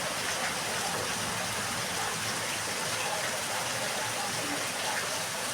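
Steady rain falling in a yard, an even hiss with scattered drop impacts and a gushing note of running water.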